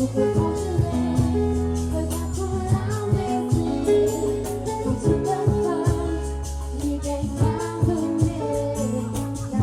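A woman singing live over band accompaniment, with strong bass and a steady beat.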